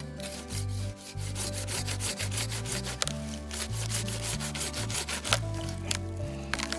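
Hand saw cutting through wood in quick back-and-forth rasping strokes, over a bed of background music.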